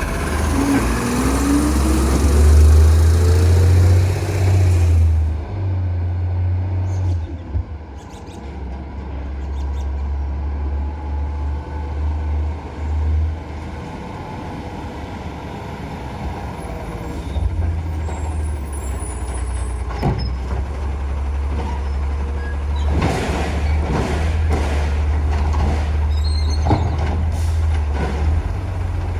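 Autocar side-load garbage truck with a Labrie body, its engine running with a steady low rumble. A hiss of air cuts off suddenly about five seconds in, and short knocks and clanks come in the last third.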